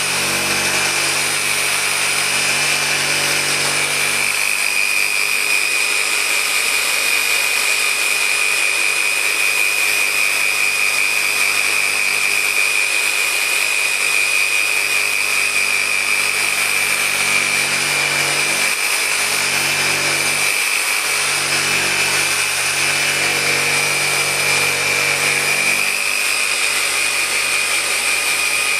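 Random orbital polisher with a microfiber pad running continuously on car paint, polishing out 4000-grit sanding marks. A steady high whine, with a lower hum that shifts in pitch now and then.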